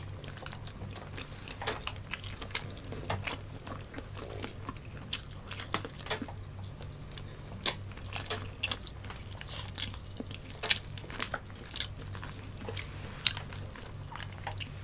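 Close-up eating sounds: chewing, with irregular sharp mouth clicks and smacks, as two people pick apart and eat fried tilapia by hand. The air-fried fish is cold and not crispy. A steady low hum runs underneath.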